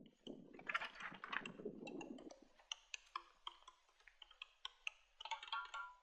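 A rustle for the first couple of seconds, then scattered light clicks and taps.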